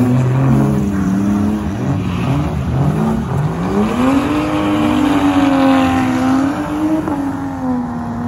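Car engine revving hard through a drift on a wet track, its pitch swinging up and down; about four seconds in it climbs and holds high, dips briefly, then rises again near the end.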